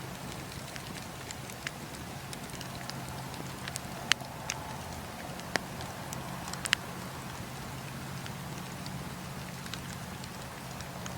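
Campfire crackling: a steady low rumble under scattered sharp pops, the loudest about four, five and a half and six and a half seconds in.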